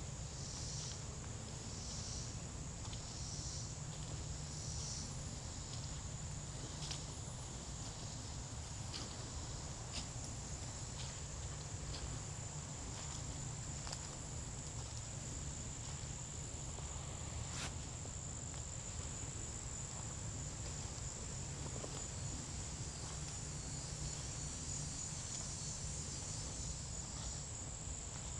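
Insects singing in one steady, unbroken high-pitched drone, cricket-like. Scattered sharp clicks of footsteps on the forest trail come through it, over a steady low rumble.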